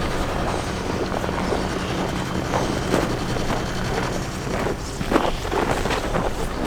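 A vehicle engine idling with a steady low hum, under wind noise on the microphone. Irregular footsteps in snow come in more often near the end.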